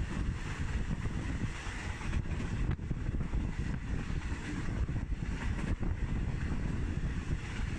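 Wind buffeting the microphone over the steady rumble of a passenger train running along the track, heard from an open carriage window.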